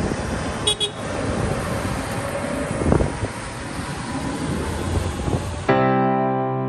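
Low, rumbling engine noise from tractors on a road run, mixed with wind noise on the microphone. The field sound cuts off abruptly near the end and piano music takes over.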